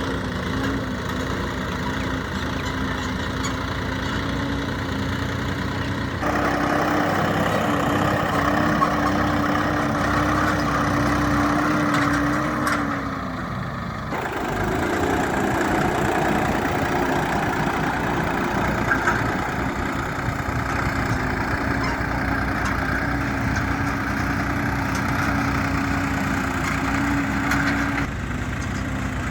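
Swaraj 969 FE tractor's three-cylinder diesel engine running steadily. About six seconds in it grows louder and higher in pitch. A little past twelve seconds its pitch falls away briefly, then it picks back up and runs on, easing slightly near the end.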